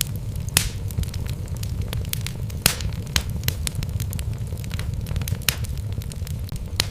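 Wood logs burning in a fireplace: a steady low rumble of flame with irregular sharp crackles and pops, two of them louder, about half a second in and near the three-second mark.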